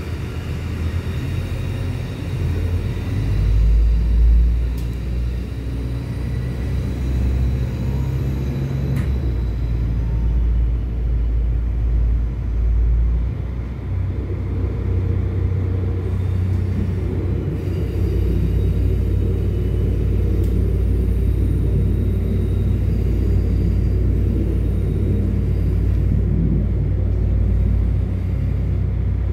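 DB Regio regional train running on the tracks, heard from inside the carriage: a steady low rumble that grows a little louder and more even about two-thirds of the way through.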